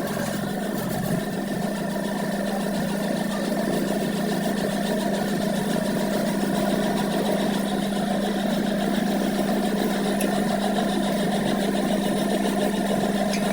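A workshop machine running steadily, with a constant low hum and no change in speed.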